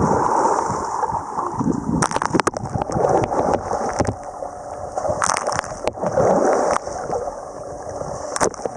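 Seawater sloshing and splashing around a waterproof compact camera's microphones at the surface, sounding muffled, with several sharp knocks.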